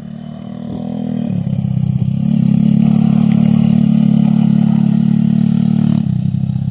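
Pit bike engine running hard: it grows louder over the first two seconds, holds a steady loud note, then eases off suddenly about six seconds in.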